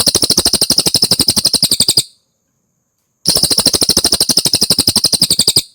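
Cililin bird singing: two loud, rapid trills of sharply repeated notes, each a little over two seconds long, with a pause of about a second between them.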